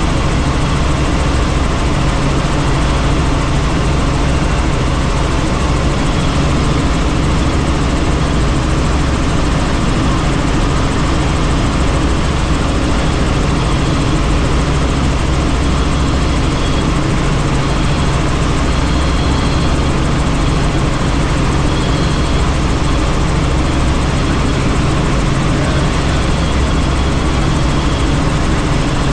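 Helicopter in flight: steady engine and rotor noise with a low drone, unchanging throughout.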